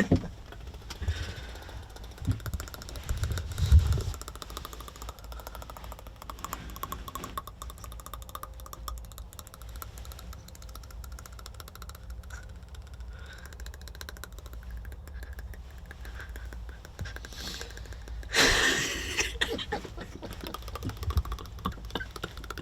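A person's teeth chattering uncontrollably in a fast, steady run of fine clicks, with a loud breath about eighteen seconds in.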